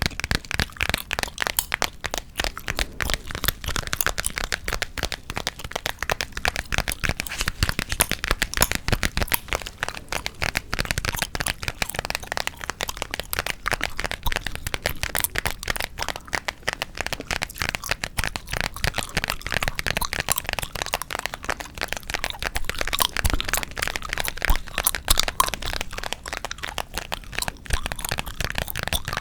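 Close-miked ASMR gum chewing and tapping: a dense, unbroken stream of sharp sticky cracks and clicks.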